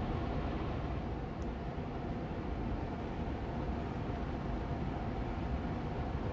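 Austin Air Allergy Machine air purifier fan running on medium speed: an even, steady hum of moving air, heaviest in the low range, with a faint steady tone through it.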